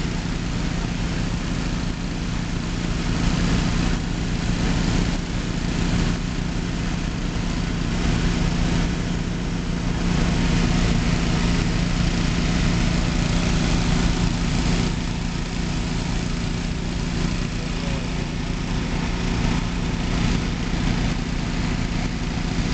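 An engine running steadily, a continuous drone with a low hum that doesn't change.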